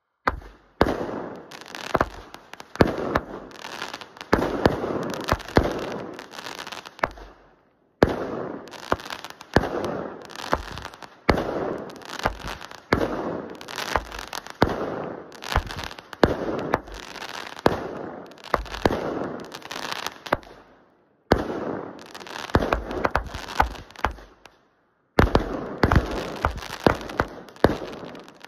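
Aerial firework cake firing a rapid barrage of sharp bangs and crackling bursts, stopping and restarting abruptly a few times.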